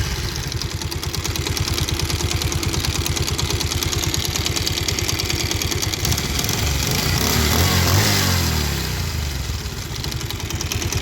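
Bajaj Pulsar 150 single-cylinder engine running with a khat-khat knocking from the clutch side. It is revved up once, peaking about eight seconds in, then settles back. The mechanic puts the knock down to a worn balancer (scissor) gear.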